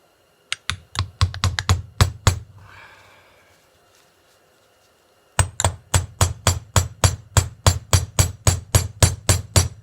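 Hammer tapping the cup of a Showa piggyback shock's seal head into the shock body. There is a quickening run of about eight taps, then after a pause a steady run of about four taps a second.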